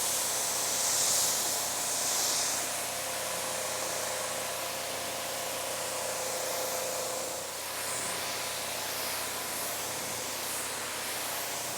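Steady hiss of rinse water spraying onto a car's ceramic-coated paint, with a faint steady hum under it.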